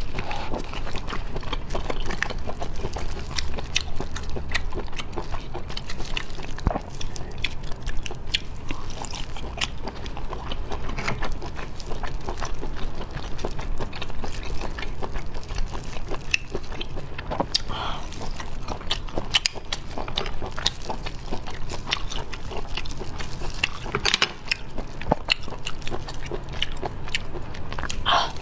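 Close-miked eating of shellfish meat: wet chewing, smacking and slurping, with many small clicks throughout.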